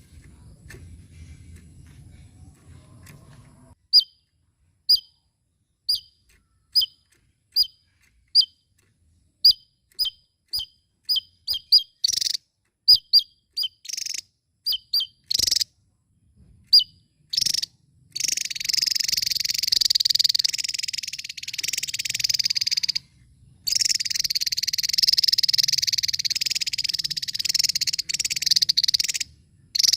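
Javan tesia singing. Sharp, high single chirps come about once a second and quicken, then about halfway through they run together into a dense, continuous high-pitched chattering song with brief pauses.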